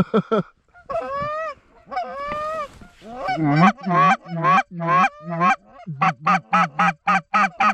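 Goose honking: two drawn-out, wavering honks, then a string of short honks and clucks that speeds up to about four a second near the end.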